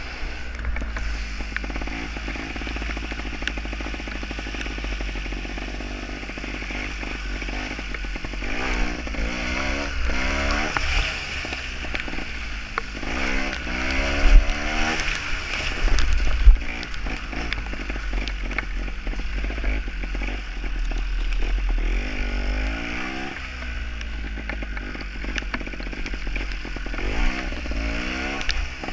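Two-stroke Gas Gas trials motorcycle engine being ridden, revving up and falling back again and again, over a steady low rumble. Two sharp loud knocks come about halfway through.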